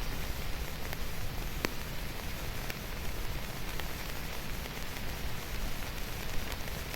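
Steady rain falling: an even hiss with scattered sharper drop hits, one standing out a little under two seconds in.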